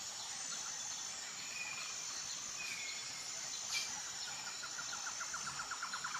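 Tropical forest ambience: a steady high insect drone with scattered short bird whistles, and near the end a quick run of pulsing calls that grows louder.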